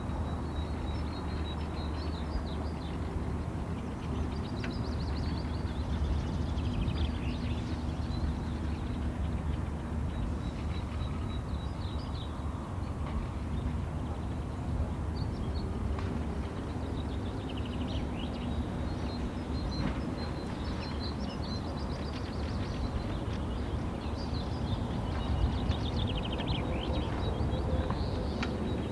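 Small birds chirping and singing in short high calls and trills, scattered throughout, over a steady low rumble.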